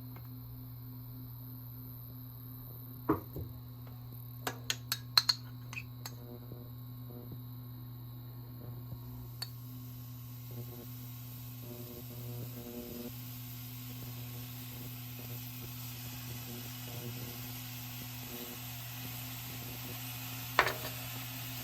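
Kitchen sounds: a steady low hum, with sharp clinks and knocks of dishes or utensils about three seconds in, a quick cluster around five seconds, and one near the end. A soft hiss builds after about nine seconds.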